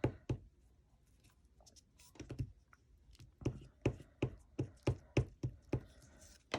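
Hands working on paper and a tabletop make quick light taps: a few knocks about two seconds in, then a run of about ten quick taps, roughly four a second.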